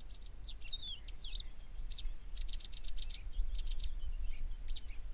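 Small birds chirping: short, high calls and a few quick whistled slides, with a fast run of about half a dozen notes around the middle, over a low steady rumble.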